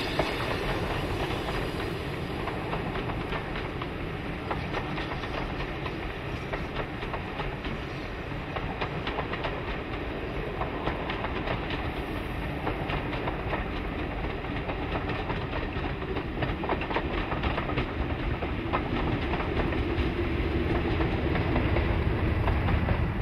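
A train of passenger coaches rolling past on the Paignton & Dartmouth heritage steam railway, the wheels clicking steadily over the rail joints. A low rumble grows louder near the end.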